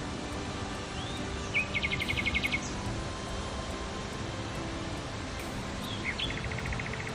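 A small songbird singing twice: a short rising note, then a quick trill of about ten evenly repeated notes. The first song comes about a second in, the second near the end, over a steady outdoor hiss.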